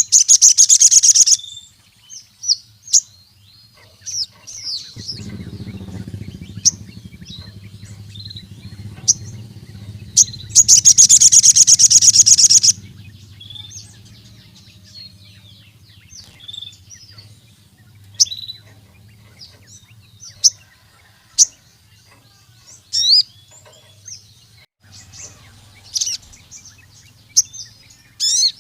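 Ruby-cheeked sunbird (sogon) singing: two loud, rapid, high trills of about two seconds each, one at the start and one about ten seconds in, with scattered short, sharp chirps between them.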